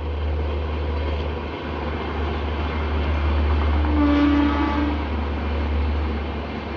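Indian Railways train running past with a steady low rumble, and one short horn blast about four seconds in.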